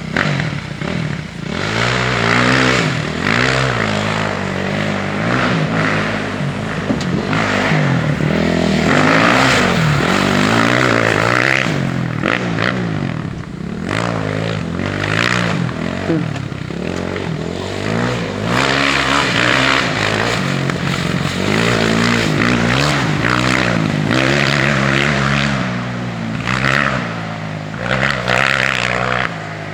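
Dirt bike engine revving up and down over and over as the bike is ridden, over a steady rushing noise.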